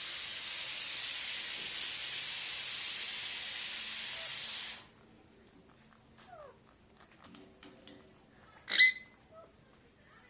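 A steady hiss that cuts off abruptly about five seconds in, then quiet with a few faint small sounds, and near the end a single short, shrill pet parrot squawk, the loudest sound.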